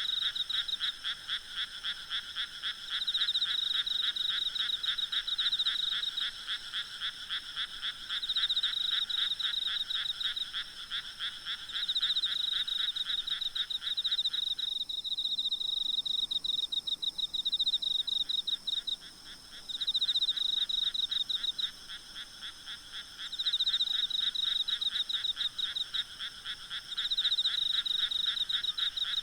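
A chorus of frogs calling in rapid pulsed trills, the highest-pitched callers coming in bouts every few seconds; a lower-pitched caller stops abruptly about halfway through. Faint steady insect trilling runs underneath.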